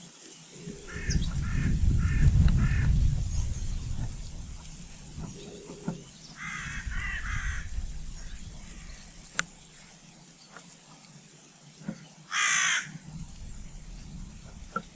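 Harsh calls of a crow-family bird: four short calls about a second in, a run of calls around six to seven seconds, and one louder harsh burst near the end. A low rumble swells under the first calls and fades by about four seconds.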